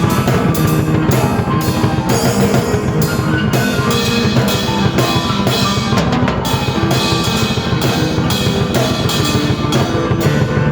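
Drum kit and keyboard played together by one player: kick and snare drive a fast, dense, steady beat under held and running keyboard notes.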